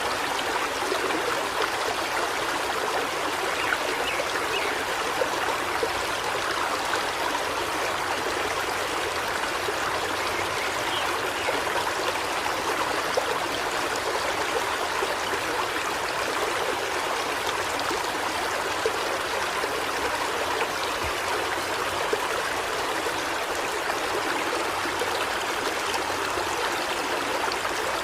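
Forest river flowing steadily, a continuous rush and babble of water.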